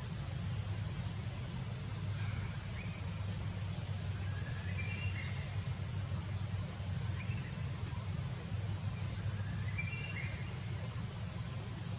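Outdoor ambience: a steady low rumble with a constant high whine, and a bird's short stepped chirp repeated about four times, roughly every two and a half seconds.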